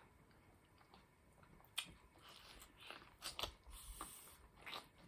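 Close-miked eating: faint chewing, with a sharp click just under two seconds in, then a run of short wet mouth clicks and smacks.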